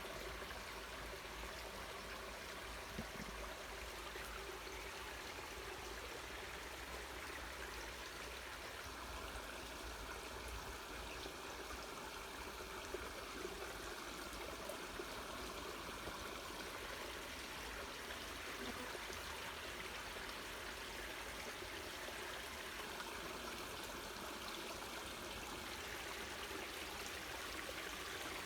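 Small waterfall splashing and rushing steadily, a constant wash of falling water.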